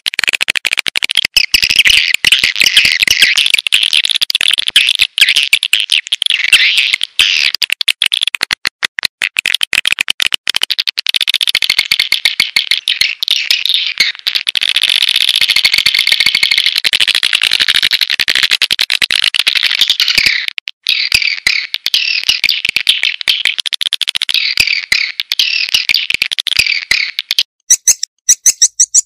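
Recorded swiftlet calls of the kind used as a lure sound for swiftlet houses: a dense, loud chatter of rapid twittering chirps and clicks. Near the end they change to higher, evenly repeated chirps.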